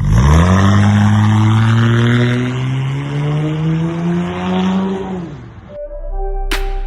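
Car engine pulling hard under acceleration, its note climbing steadily in pitch for about five seconds, then dropping as the throttle is lifted. It cuts off abruptly near the end, where music begins with a sharp beat.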